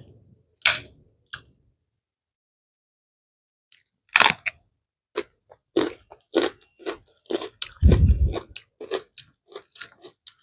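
Close-miked mukbang eating sounds: wet, crisp crunching as a mouthful of raw leafy greens is chewed, a rapid run of crunches starting about four seconds in with one heavier thud near eight seconds. Before that, two brief crackles near the start as a leaf is torn.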